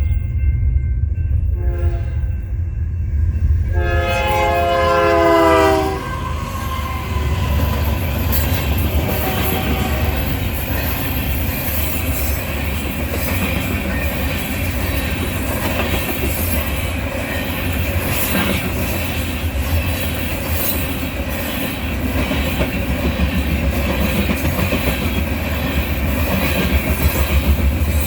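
Union Pacific train's locomotive horn sounds two short blasts and then a long, loud blast that cuts off about six seconds in. The train then rolls past close by, with a steady heavy rumble and the clatter of wheels over the rails.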